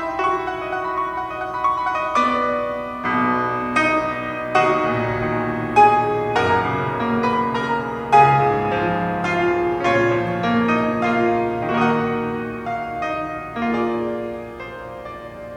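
Piano playing, its struck notes ringing on into one another and growing softer near the end.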